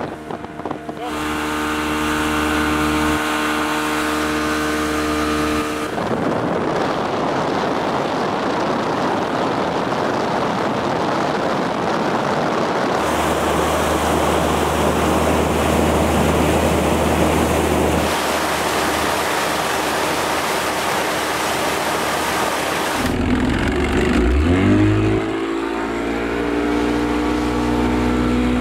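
Motorboat engine running, with loud rushing wind and water noise over long stretches. Near the end the engine revs up with a rising pitch, then holds a steady tone.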